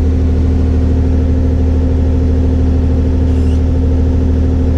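Kubota 040 excavator's diesel engine running at a steady speed, a constant low hum with no hammer blows.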